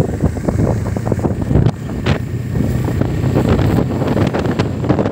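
Motorcycle on the move, its engine running steadily under heavy wind noise buffeting the microphone.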